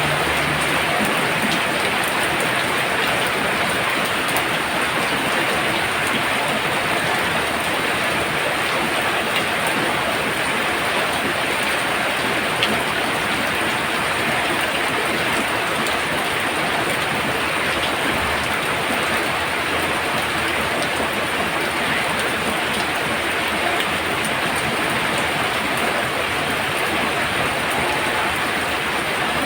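Heavy rain pouring down steadily, a dense, even hiss of a downpour.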